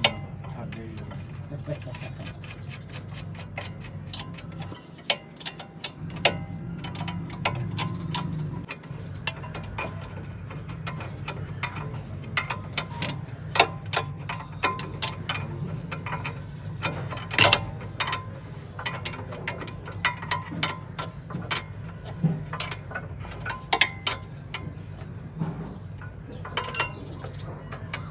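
Metal hand tools clicking and clinking while a car's steering is being worked on: a quick run of small clicks for the first several seconds, then scattered sharper knocks, over a steady low hum.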